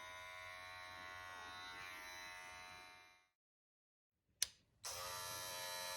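Masterclip Showmate II cordless cat trimmer running with a quiet, steady electric hum. The hum stops about three seconds in; after a sharp click it starts up again about five seconds in.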